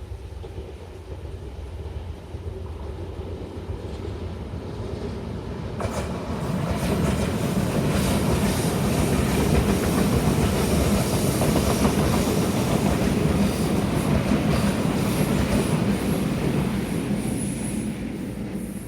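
Taiwan Railways train passing close by on the line. Its rumble and clatter of wheels on the rails build up, jump in loudness about six seconds in, hold loud for about ten seconds, then ease off near the end.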